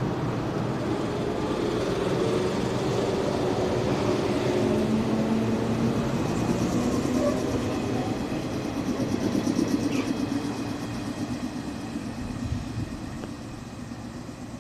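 Yellow electric commuter train pulling out of the station and running past, with the hum of its motors over the rumble of the wheels on the rails. About ten seconds in comes a quick rhythmic clatter, and the sound then fades as the train moves away.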